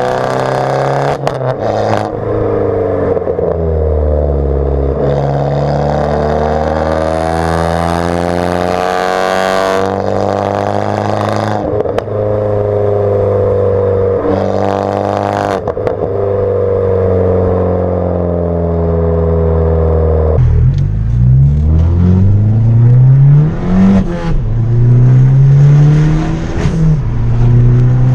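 Abarth 500's turbocharged 1.4-litre four-cylinder breathing through a decatted, straight-piped Bombardone exhaust, running with its note rising and falling gently. About twenty seconds in it gets louder, with several quick rising revs as it accelerates hard.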